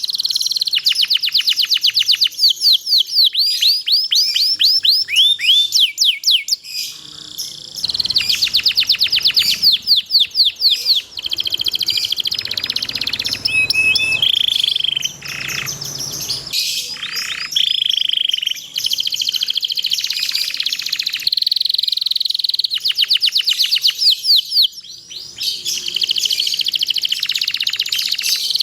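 Domestic canary singing a long song: fast rolling trills of rapidly repeated falling notes alternating with short held whistles, in phrases broken by brief pauses.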